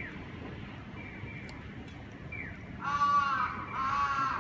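A large bird calls twice near the end, each call about half a second long, over steady background noise.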